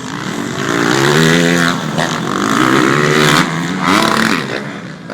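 Motocross motorcycle engines revving hard on a race track, the pitch climbing and dropping as the throttle is worked, in three surges, the loudest in the middle.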